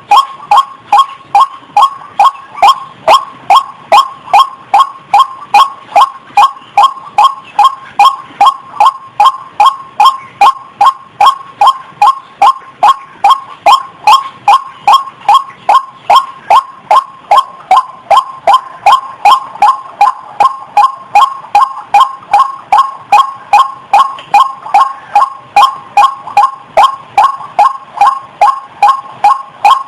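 Female ruak-ruak (waterhen) in breeding condition calling over and over, a short pitched note about three times a second in an unbroken rhythm; the kind of call used as a lure to draw in these birds.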